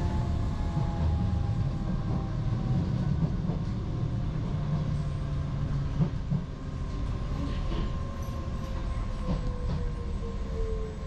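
Docklands Light Railway train running on the track, heard from inside the carriage: a steady low rumble with an electric motor whine that slowly falls in pitch as the train slows, and a single knock about six seconds in.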